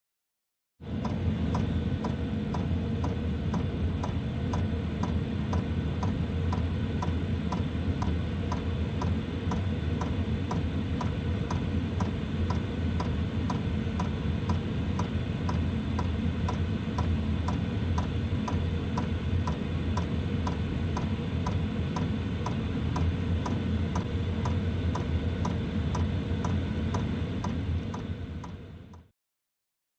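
Budget FF heater running: its electromagnetic fuel pump ticks at an even rate, several clicks a second, over the steady hum of the blower fan. The sound cuts off suddenly near the end.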